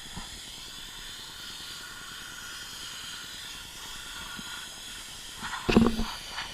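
Steady hiss of a pressure washer's spray, with a brief loud bump near the end.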